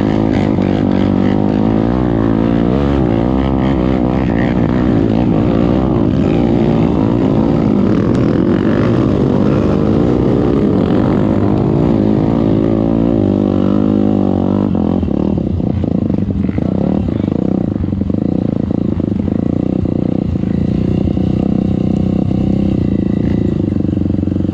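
Off-road trail motorcycle engine running under load, its revs rising and falling repeatedly through the first half, then settling to a steadier drone for the rest.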